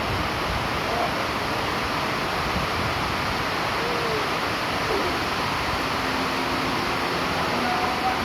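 Steady rain falling, a constant even hiss, with a few faint short tonal sounds over it in the middle and near the end.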